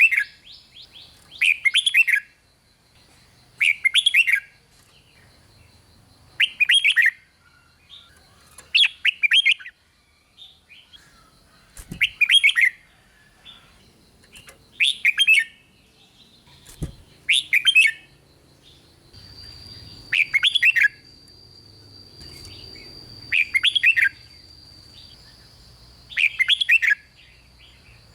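Red-whiskered bulbul singing, repeating a short warbled phrase about every two to two and a half seconds, with a faint steady high tone underneath.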